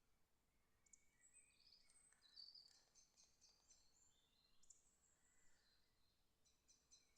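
Faint birdsong outdoors: several small birds singing short chirping and trilling phrases, one after another, over a quiet background hiss.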